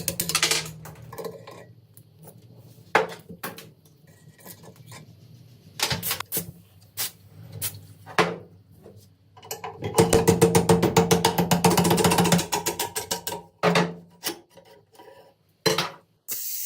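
Hand tool rubbing over rusty steel gun parts in bursts of quick, even strokes, the longest burst running a few seconds past the middle. A short hiss of spray comes near the end.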